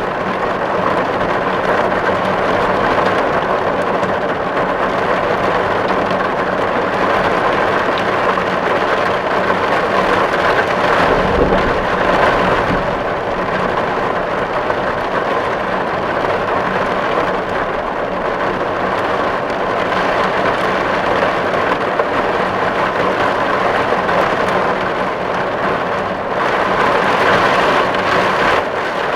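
Steady, dense rain drumming on a metal tin roof, with a brief low rumble about eleven seconds in.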